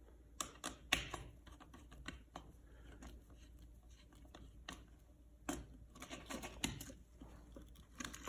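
Scattered light clicks and taps of hand tools and copper wire against an electrical outlet as the wire is bent around the terminal and crimped down with pliers.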